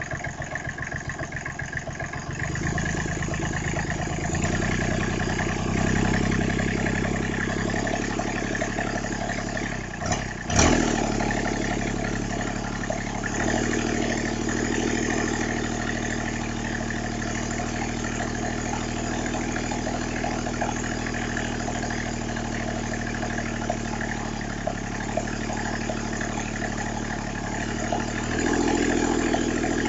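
Small Briggs & Stratton diesel engine running warm, lifted from a slow idle about two and a half seconds in and then held at changing speeds, which step up and down several times. There is a brief dip and surge about ten seconds in.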